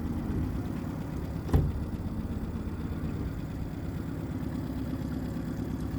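New 9.9 hp dinghy outboard running steadily at low throttle while it is still being broken in, not yet up on the plane. A single sharp thump about a second and a half in.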